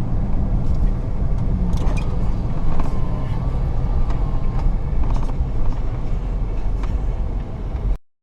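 Pickup truck driving, a steady low engine and road rumble that cuts off abruptly near the end.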